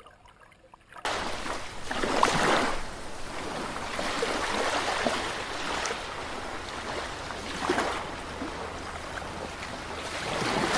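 Rushing, splashing water that starts suddenly about a second in after a faint trickle, then runs on with a few swells.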